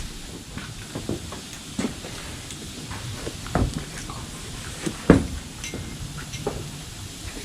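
Campfire burning with a steady hiss, broken by a few sharp pops or knocks, the loudest about five seconds in.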